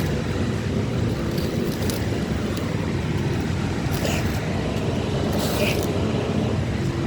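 Steady low background rumble, with a couple of brief rustling scrapes of hands digging potatoes out of loose soil about four and five and a half seconds in.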